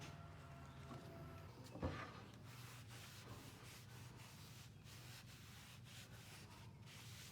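Faint rubbing or scraping, with a single knock about two seconds in, over a low steady hum.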